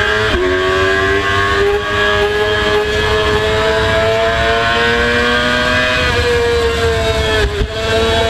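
Race motorcycle engine at high revs under hard acceleration: a quick upshift just after the start, then a long, steadily rising pull. About six seconds in it eases off with a falling pitch, then shifts briefly again near the end.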